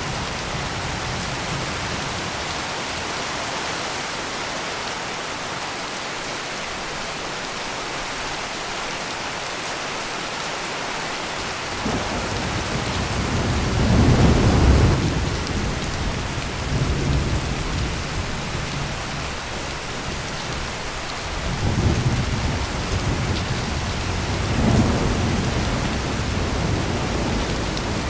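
Steady heavy rain with rolling thunder: the rain hisses throughout, and thunder rumbles in twice, a long roll about halfway through and another a few seconds later.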